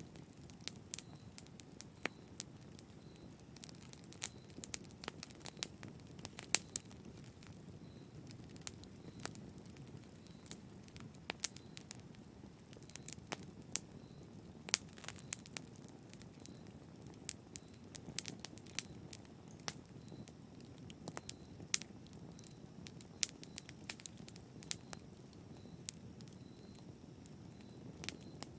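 Wood fire crackling in a fireplace: irregular sharp pops and snaps, several a second, over a soft, steady low rush from the flames.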